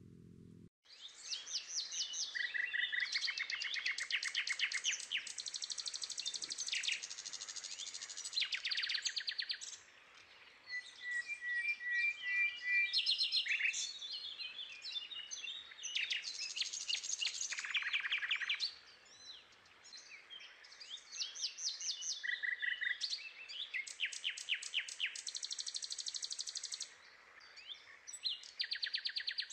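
Birds singing and calling in overlapping phrases of rapid trills and quick repeated chirps, with brief lulls between bursts.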